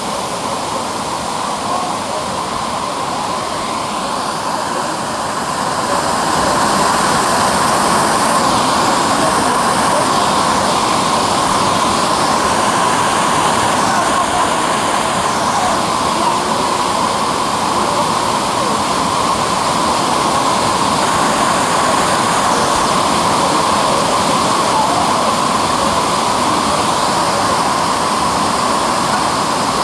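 Falling Branch Falls, a waterfall of about 20–25 feet, rushing in a loud, steady roar of falling water that grows louder about six seconds in.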